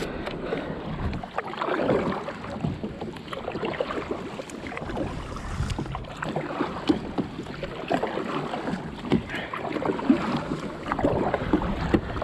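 Water sloshing and lapping against a kayak hull, with scattered small knocks and rattles of gear on the boat.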